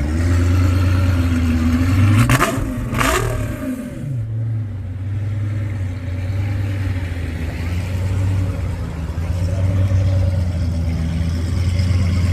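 Car engine running with a deep, steady note. About two seconds in it is revved hard twice in quick succession, then settles back to idle.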